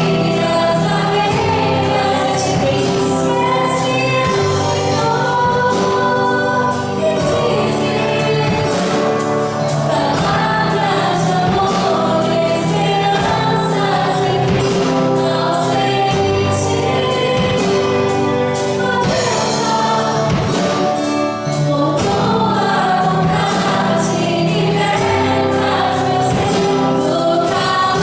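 Gospel worship music: a group of singers in choir-like unison over a band with a steady drum beat.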